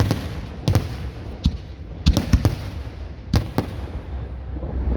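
Fireworks exploding: a string of sharp, irregular bangs, several in quick succession about two seconds in, over a low continuous rumble.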